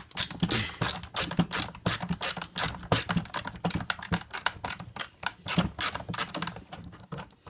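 Rapid, irregular clicking and rattling of a screwdriver at work on an appliance's screws, several clicks a second.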